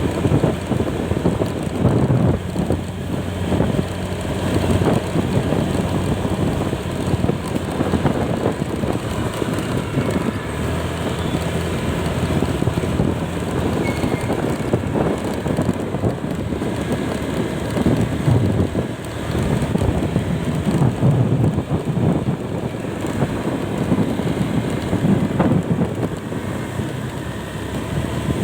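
Steady wind rush on the microphone over the running engine of a moving vehicle on the road.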